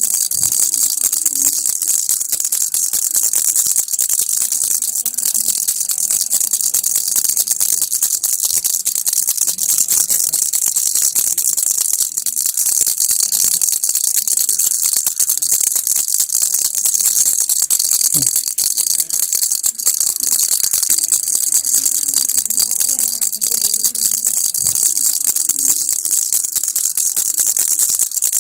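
Baby's toy rattle (kilukki) being shaken steadily without pause, a dense, high, hissing rattle.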